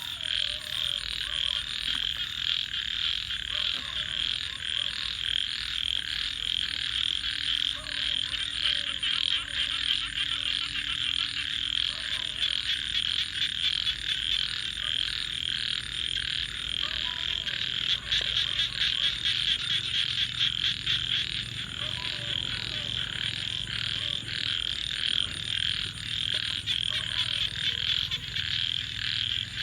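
A dense chorus of many frogs calling at once, forming a continuous rapid pulsing trill, with lower single croaks breaking in every few seconds.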